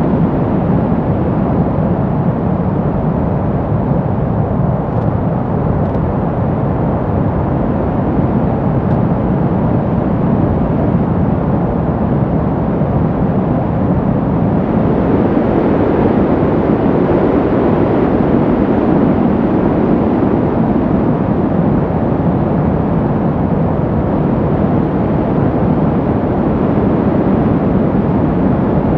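Brown noise: a steady, deep rushing hiss with most of its weight low down and little top end, swelling and easing slowly, as in an ambient brown-noise track.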